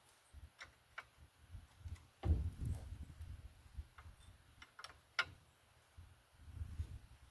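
Irregular light metallic clicks and ticks of hand tools working at a car's front suspension, with a duller knock about two seconds in and a sharp click about five seconds in.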